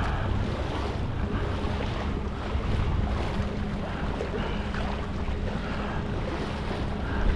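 Wind buffeting the microphone over water washing and splashing around a kayak riding the swells, with a low steady hum underneath.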